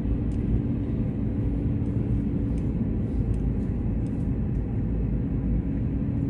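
Steady engine and road noise heard from inside the cabin of a moving vehicle, a low rumble with a constant hum and a few faint ticks.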